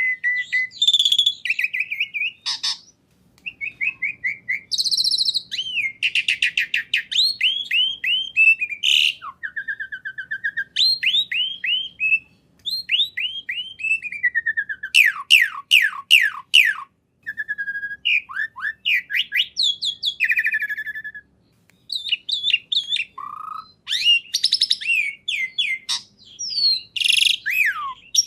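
A songbird singing a long, varied song: runs of quick whistled notes that sweep downward, trills and chattering phrases, with only brief pauses between them.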